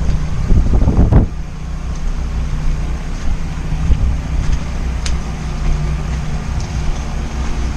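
Portable generators running around the neighbourhood during a post-hurricane power outage: a steady low engine hum. A louder rush of noise over the first second.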